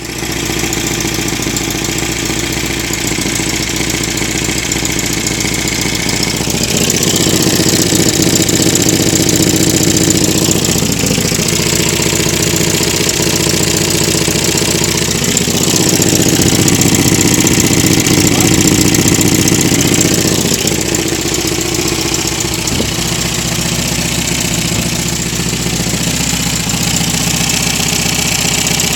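MGB running with a drumming noise. The sound gets louder for a few seconds twice, about seven and sixteen seconds in, then settles back.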